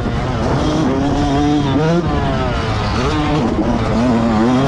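Motocross bike engine revving hard, its pitch climbing and dropping every second or so as the throttle is worked and gears change.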